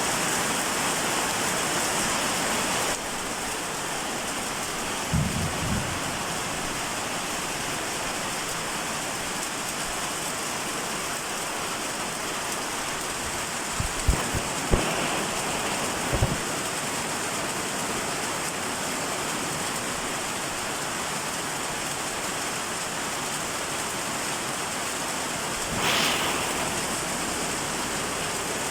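Steady rain falling, an even hiss that eases slightly about three seconds in. A few short knocks come about five seconds in and again near the middle, with a brief swell near the end.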